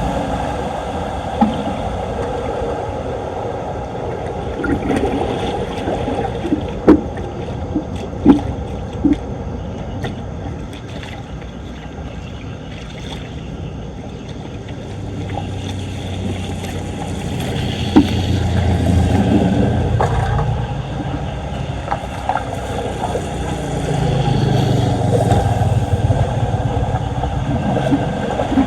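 Floodwater rushing and gurgling into a street storm drain, with a few sharp knocks and scrapes. A deeper rumble swells twice in the second half.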